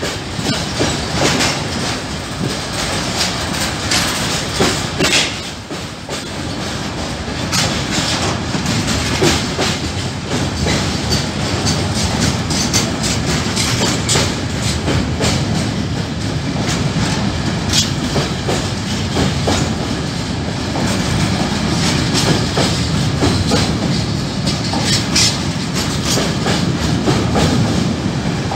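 Freight train of hopper wagons and closed wagons rolling past, its wheels clattering steadily over the rail joints with a continuous rumble.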